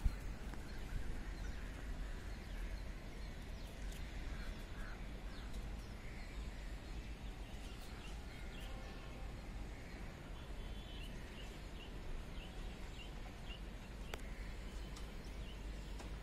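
Open-air ambience: a steady low rumble with faint, short bird chirps repeating about twice a second in the second half.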